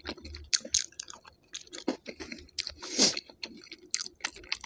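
Close-miked chewing of a person eating: irregular wet mouth clicks and crunches, with a louder, longer crunch about three seconds in.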